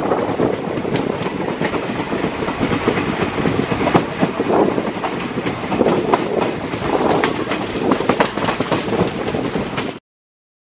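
Indian Railways passenger coaches rolling at speed, their wheels clacking irregularly over rail joints amid steady running noise, heard from aboard the moving train. The sound cuts off suddenly near the end.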